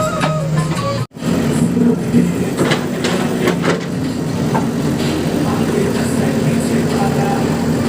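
Diesel engine of a JCB backhoe loader running steadily, with scattered knocks and clanks. Music plays for about the first second, then cuts off abruptly.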